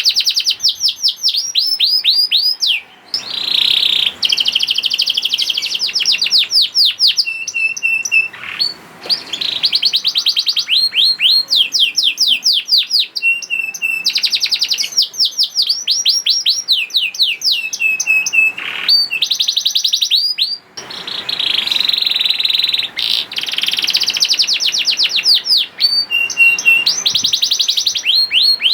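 Domestic canary singing a long, fast song of rapidly repeated sweeping notes and trills, broken by short pauses a few times.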